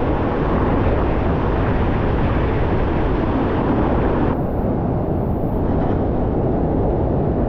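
Waterfall rushing in a loud steady wash of noise, heaviest in the low range; its hissy top thins a little about four seconds in.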